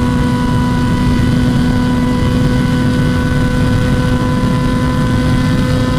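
Motorcycle engine running at steady high revs while cruising at speed, one even unchanging tone, over the low rush of wind.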